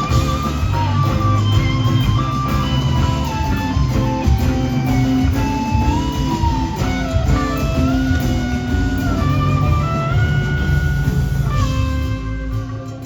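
Live rock band in an extended instrumental jam: a sustained electric guitar lead holds long notes that glide between pitches over bass and drums. The band thins out briefly near the end.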